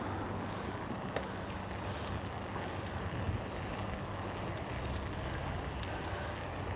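Steady wind buffeting the microphone while riding a bicycle, with a few faint clicks.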